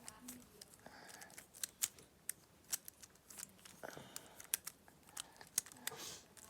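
Plastic infinity cube fidget toy being folded and flipped in the hands: a run of small, sharp, irregular clicks and clacks as its hinged blocks snap over.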